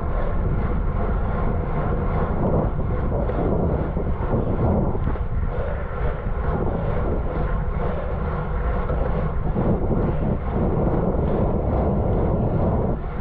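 Steady rush of wind and tyre noise from a road bicycle ridden at race speed, with no distinct events.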